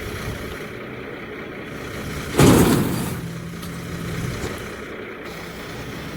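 New Holland Boomer 24 subcompact tractor's diesel engine running steadily while working. About two and a half seconds in comes a sudden loud noisy burst that fades over about a second.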